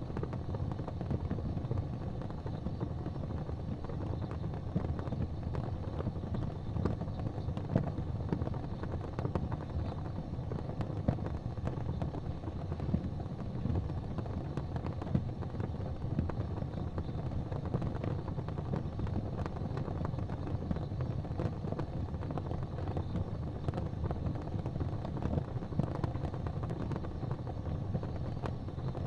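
Wood fire burning in a fireplace: a steady low rumble of the flames with frequent small crackles and an occasional louder pop of the burning logs.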